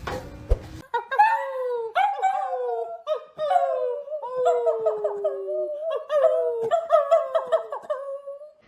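A dog whining and howling: a run of high, falling cries, one or two a second, some overlapping, starting about a second in.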